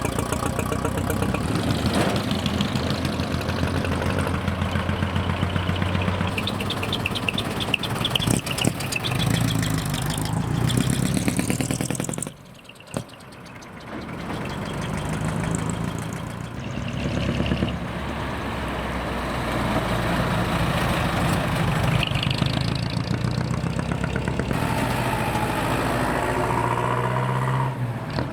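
Heavy truck diesel engines idling and revving as the trucks pull away one after another. The sound drops away suddenly about twelve seconds in, then the engines come back.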